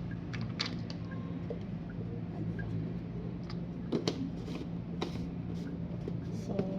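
Scattered light clicks and taps of spice containers and utensils being handled while seasoning is added to chicken, over a steady low background hum.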